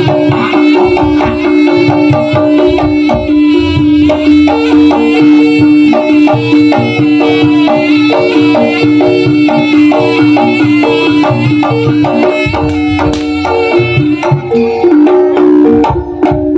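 Live jaranan accompaniment played by a Javanese gamelan-style ensemble: fast hand-drum strokes over a held, wavering melody tone and low gong-like bass.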